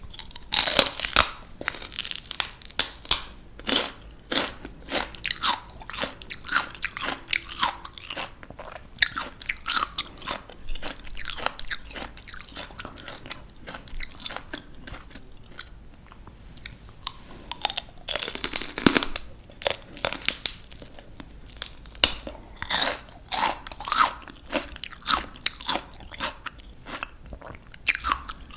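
Close crunching of crisp raw vegetables being bitten and chewed: a loud crisp bite about a second in, then a run of crunchy chewing, with another big bite about two-thirds of the way through.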